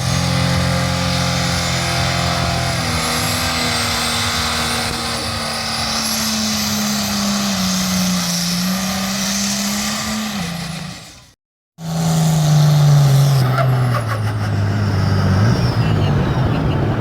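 Pulling tractor's engine running hard at high revs, loud and steady, with a faint high whine above it. After a brief cut about eleven seconds in, another run is heard where the engine note falls steadily.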